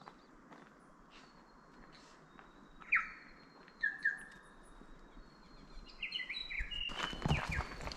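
Forest birds calling: short whistled notes, two louder ones about three and four seconds in, over a thin steady high tone. Near the end a louder run of quick clicks and knocks sets in, with more calls over it.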